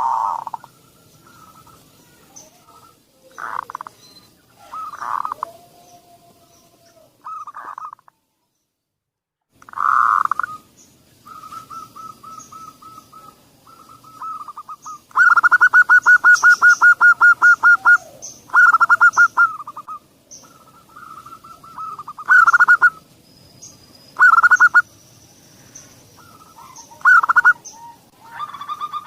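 Zebra dove (perkutut) song: short coos repeated on and off, with a long fast rattling run of coos lasting about three seconds in the middle. The sound cuts out completely for about a second and a half early on, then the calls resume.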